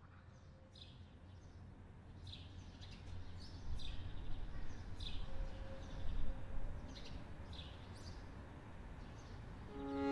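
Outdoor ambience fading in: small birds chirping in short, high calls every half second or so, over a low rumble that swells in the middle.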